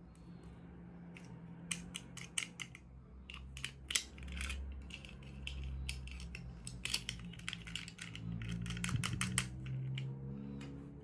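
Irregular clicks and crinkles of plastic packaging and small toy parts being handled during an unboxing, over a steady low hum.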